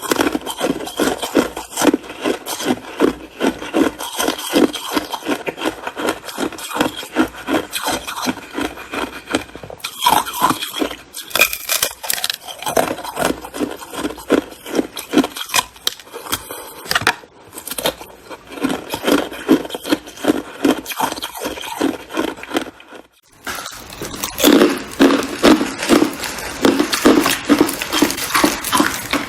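Ice being chewed close to the microphone: a fast, steady run of crunching bites, about three a second. The chewing pauses briefly about three-quarters of the way through, then resumes.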